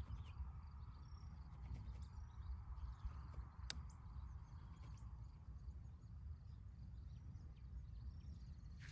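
Quiet outdoor ambience: a steady low rumble with scattered faint bird or insect chirps, and one sharp click a few seconds in.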